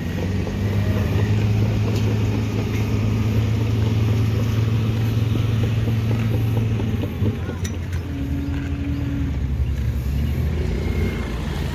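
Dump truck's diesel engine running steadily, its note dropping about seven seconds in.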